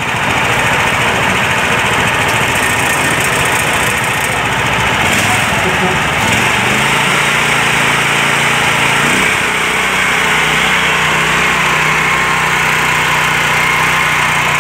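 Single-cylinder 390 cc petrol engine with a bolted-on 20:1 reduction gearbox running steadily after being pull-started; its note steps up slightly in pitch about six to seven seconds in.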